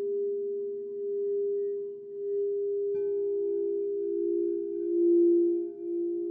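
Crystal singing bowls ringing in long, overlapping pure tones that swell and fade. About halfway through, another bowl is struck and adds a new, lower note.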